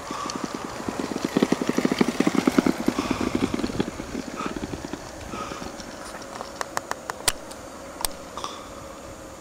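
Small wheels of a makeshift go-kart rattling and clattering fast over bumpy ground for about five seconds, then dying away, followed by a few sharp knocks.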